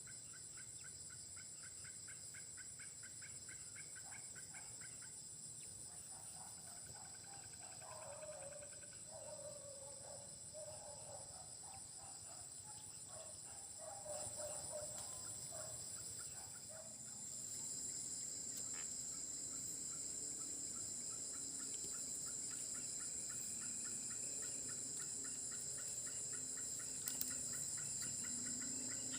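Dense insect chorus: a steady, shrill, high buzzing and a faster pulsing trill, growing louder a little past halfway. Through the middle comes a run of burbling, gobbling animal calls.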